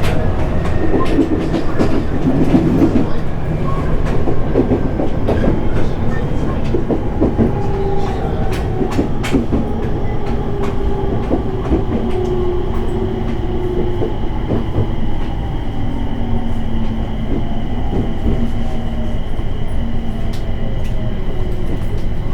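Inside a 701 series electric train under way: steady wheel and track rumble with wheels clicking over rail joints, and motor whine slowly falling in pitch as the train slows.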